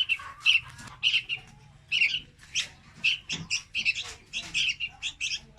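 Juvenile red-whiskered bulbul calling: a rapid, uneven string of short, high chirps, several a second.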